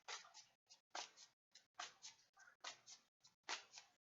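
Near silence with faint, irregular clicks and taps, a few a second, in small clusters.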